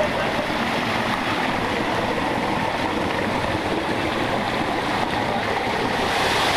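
Rushing water of a rainforest stream or waterfall, a steady rush that gets a little louder near the end.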